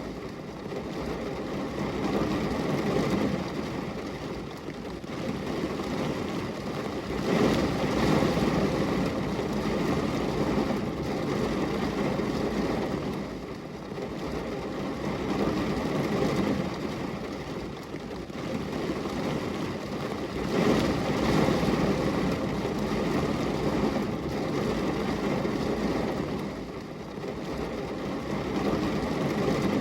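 Steady rain on a glass window, a continuous deep wash of noise that swells and eases every few seconds.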